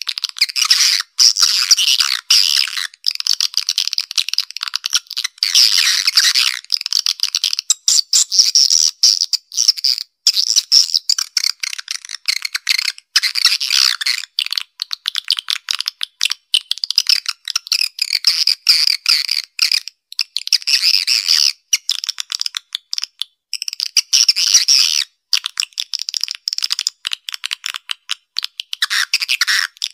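Swiftlet lure call: a recorded track of swiftlets' rapid, dense chattering and twittering, high-pitched with no low sound at all, broken by many short gaps. It is played from a swiftlet house to draw swiftlets in to roost and nest.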